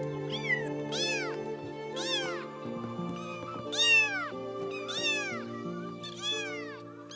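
Domestic cat meowing about six times, each meow rising then falling in pitch, the loudest about four seconds in, over steady background music.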